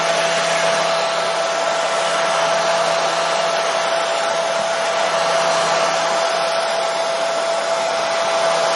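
Hair dryer running steadily: an even rush of airflow with a constant motor whine, played as white noise to soothe a colicky baby to sleep.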